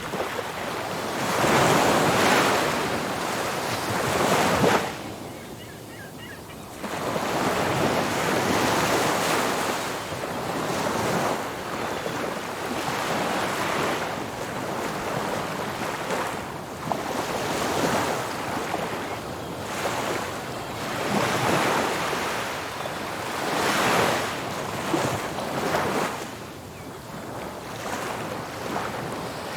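Ocean surf breaking on a beach: a continuous rushing wash that swells and ebbs as waves come in, with a brief quieter lull about five seconds in.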